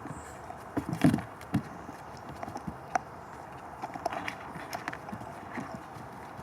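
German Shepherd puppies moving about, their paws and claws tapping and scrabbling on a hard floor in irregular clicks and knocks, the loudest cluster about a second in.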